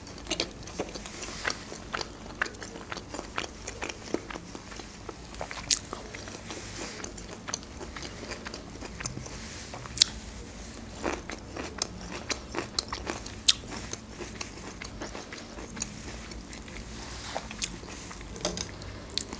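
A person eating close to the microphone: chewing and biting soy-sauce beef stir-fry and pickled ginger, with many sharp clicks at an irregular pace.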